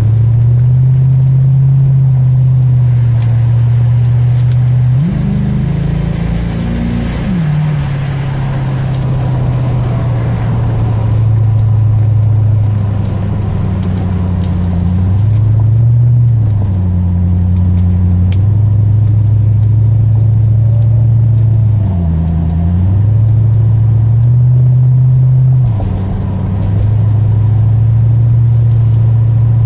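C4 Corvette's V8 engine heard from inside the cabin, running hard on the track, its note stepping up and down several times with the throttle and gear changes.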